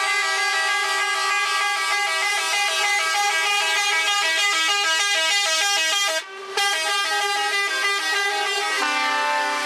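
Several truck horns sounding together, overlapping steady tones with some notes pulsing on and off quickly. They break off briefly about six seconds in, and a lower horn joins near the end.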